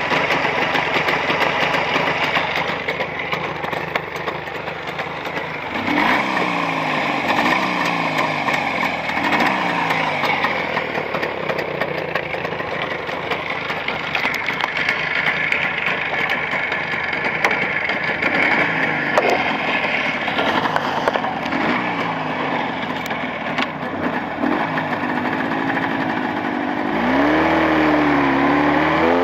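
Motorcycle engine with contact-breaker ignition, freshly rebuilt on bored Chinese cylinders and being run in, pulling through the gears on a ride. Its pitch climbs and drops again with each shift, and it gets louder near the end as the revs rise.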